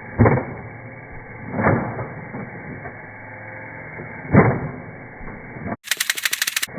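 Nerf N-Strike Elite Hailfire blaster shots slowed down in slow motion: three deep, drawn-out thumps a second and a half to two and a half seconds apart, sounding muffled. Near the end comes a short burst of rapid clicking shots at full speed, about fifteen a second, lasting under a second.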